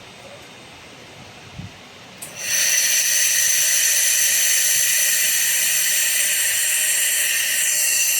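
Handheld head of a 3000 W four-in-one laser machine starting to fire about two seconds in: a steady hiss with high whining tones layered over it. It runs without a break and begins to fade near the end.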